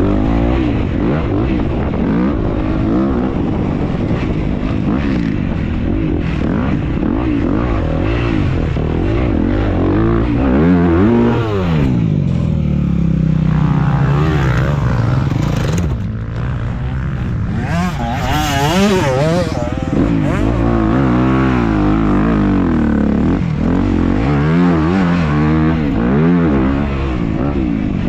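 Racing dirt bike engine revving hard and continuously, its pitch rising and falling with throttle and gear changes. Near the middle the revs ease down for a few seconds, then pick up again in quick rapid bursts.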